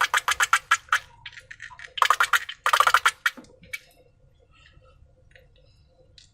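Slime being squished and worked by hand: a quick run of sticky clicks and pops, about ten a second, during the first second, another burst from about two seconds in lasting just over a second, then only scattered faint clicks.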